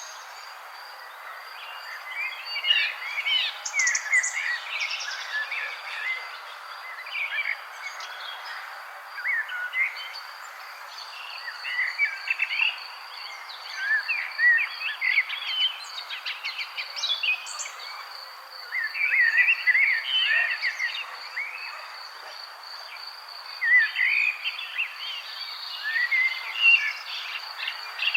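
Several songbirds chirping and twittering in short, irregular bursts over a steady, high insect trill, with a soft background hiss.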